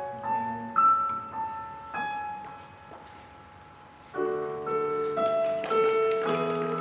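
Piano playing slow single melody notes that die away, then fuller chords come in about four seconds in.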